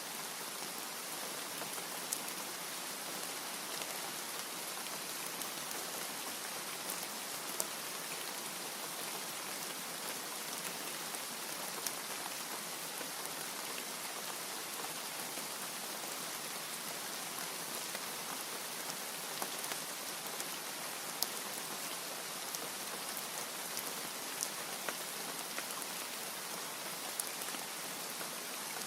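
Steady rain falling, an even hiss with scattered sharp ticks of single drops striking a surface. No thunder is heard.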